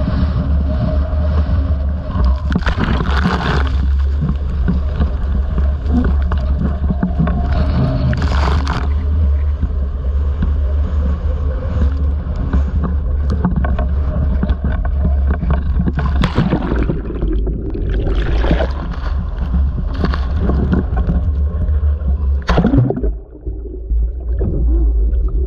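Strong, steady wind of about 40 mph buffeting the microphone in a constant low rumble, with a rough sea of waves surging and breaking. Several louder gusts or surges come through, and the level drops briefly near the end.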